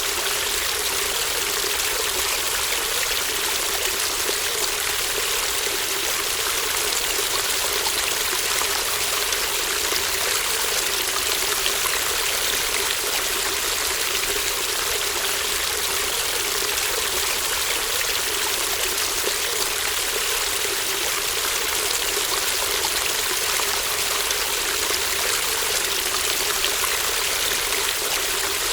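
A shallow, babbling stream: water running and trickling over stones in a steady, unbroken flow.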